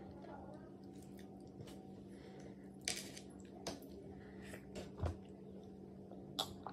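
Close-up eating sounds: soft chewing and mouth clicks from pounded yam eaten by hand, then swallows of water from a glass in the second half, a few sharp clicks standing out over a steady low hum.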